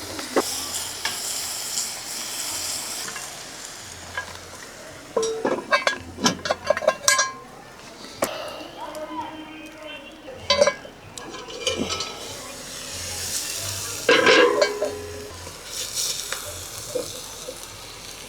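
Food sizzling in a pan while a metal utensil stirs and scrapes it, with bursts of clinking and scraping strokes three times.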